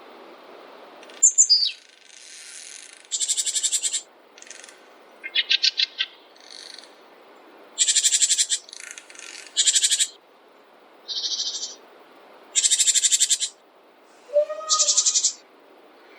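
Small songbirds calling: a series of about a dozen short, high, buzzy trills and chirps, each under a second, some made of rapid repeated notes. They play over a faint steady background hiss, which drops about a second in.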